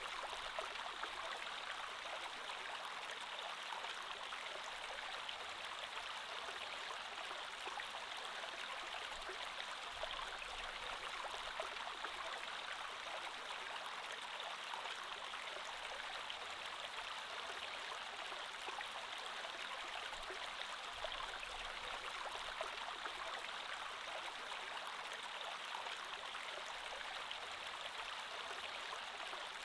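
Creek water flowing steadily over stones, a continuous even rush with fine gurgling and trickling detail.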